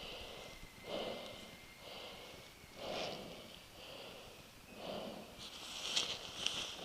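A person's breathing, one breath about every second.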